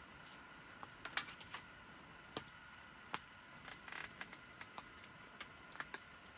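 Scattered water drops tapping on a tent, sharp single taps at irregular intervals, a dozen or more, over a faint steady hiss.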